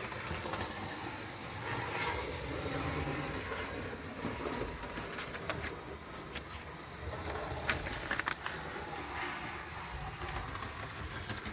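Fleischmann HO-scale model of an NS 1200-series electric locomotive running along a model railway track, a steady motor and wheel noise with a few sharp clicks.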